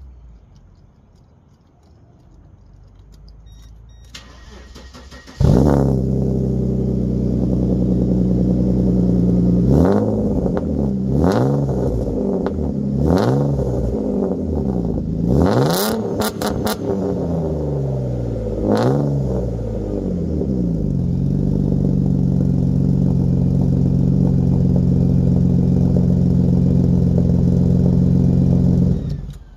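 Straight-piped 1997 Mercedes inline-six, with the resonator and muffler deleted, starts suddenly about five seconds in. It is revved in several quick blips, then idles steadily and is shut off just before the end.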